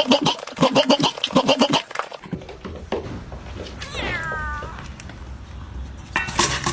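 Domestic cat meowing: a quick string of short cries in the first two seconds, then a single meow falling in pitch about four seconds in, over a low rumble, with more loud cries near the end.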